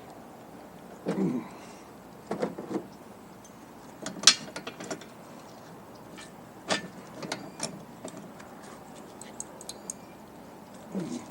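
Hand tools working on the metal fittings of a Bostitch air compressor: scattered clicks and clanks of metal on metal as a nut and fitting are loosened and turned off, the sharpest click about four seconds in.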